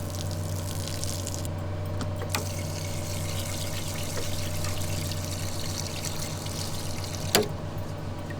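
Water pouring and trickling into a pot of rice as the rice is rinsed and covered with water before steaming. There is a sharp knock near the end, over a steady low hum.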